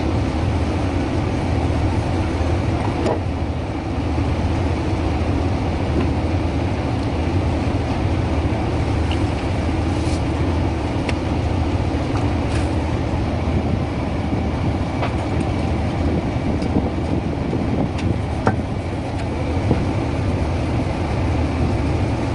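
Fishing boat's engine running steadily with a loud low drone, with a few sharp clicks here and there.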